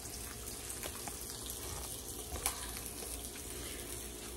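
Food frying in a small pan: a steady sizzle with a few faint pops, one a little sharper about two and a half seconds in.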